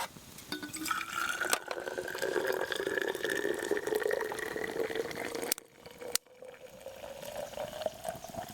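Freshly boiled water being poured into a container, its tone rising in pitch as the vessel fills. After a brief break about six seconds in, the pouring goes on with the pitch still climbing.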